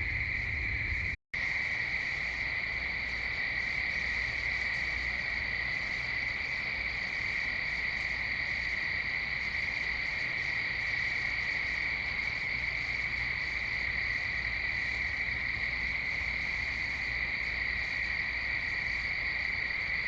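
Steady night chorus of crickets, a continuous high-pitched trill with no pauses. The sound cuts out completely for a moment about a second in, then resumes unchanged.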